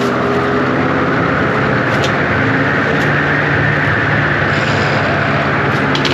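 John Deere 333G compact track loader's diesel engine running steadily at working throttle, with a high whine over it from the hydraulically driven cutting attachment.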